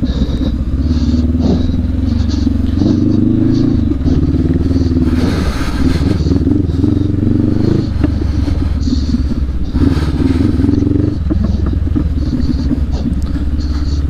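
Adventure motorcycle engine running on a dirt trail, its revs rising and falling as the throttle is opened and closed.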